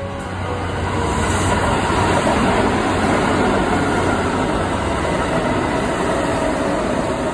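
Kintetsu electric train running into the station alongside the platform, the rumble of wheels on rail building over the first second or so and then holding steady and loud as the cars pass close by.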